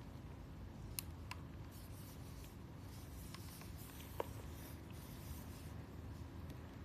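Quiet room tone with a low rumble, faint scratching and a few small sharp clicks, one about a second in and another about four seconds in.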